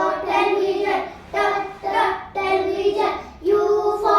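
A class of young children chanting the phonics alphabet together in unison, in drawn-out, sing-song syllables with short pauses between them.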